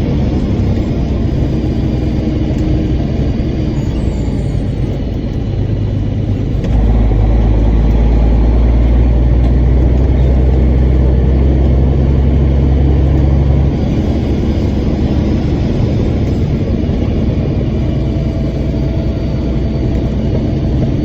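Heavy truck engine running steadily, with a louder, deeper rumble from about seven to about fourteen seconds in.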